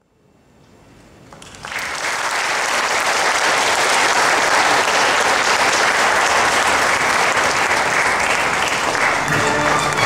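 Applause fading in from silence over about two seconds, then steady and loud.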